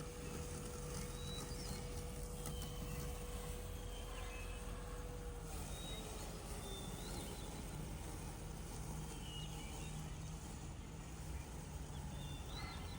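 UBHOME M10 robotic lawn mower running with a low steady hum and a thin whine that stops about five and a half seconds in. Birds chirp now and then.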